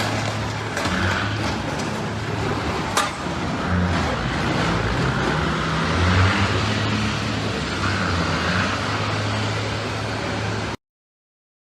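Car on the move: steady engine and road noise with low, shifting engine tones and a short sharp click about three seconds in. The sound cuts off abruptly to silence near the end.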